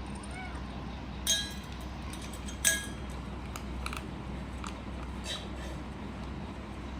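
Food bowl clinking twice, sharp and ringing, about a second and a half apart, then a few faint clicks, as a kitten eats dry cat food from it.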